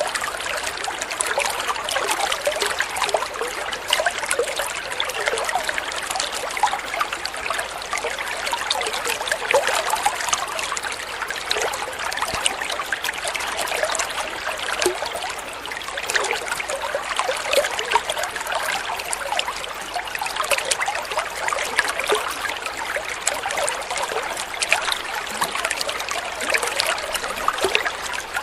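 Water flowing and trickling steadily, a continuous splashing babble of small streams over rocks.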